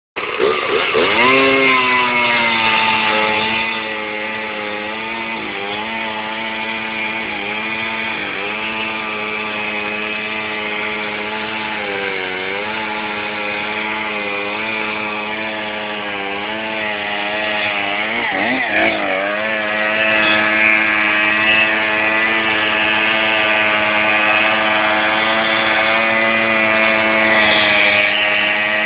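Small petrol engine starting about a second in and running at high revs, its pitch dipping briefly several times and dropping sharply then climbing back near the two-thirds mark as the throttle is worked.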